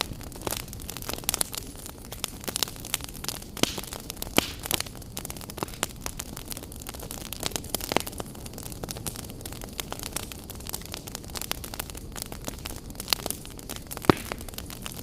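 Wood fire burning in a fireplace, crackling and popping irregularly over a steady low rush of flame, with a few sharper pops standing out, one about eight seconds in and one near the end.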